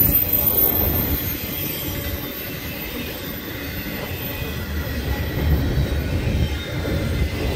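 Double-stack intermodal freight train rolling past: a steady rumble of well-car wheels on the rails.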